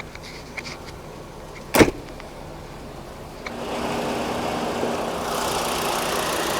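A single loud slam a couple of seconds in, then from about halfway the Volkswagen Rabbit's 2.5-litre inline five-cylinder engine idling steadily.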